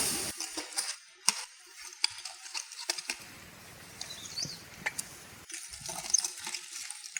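Light clinks and taps of cooking utensils and cookware being handled, a sharp click every second or so over a faint steady hiss, with a louder clatter at the very start.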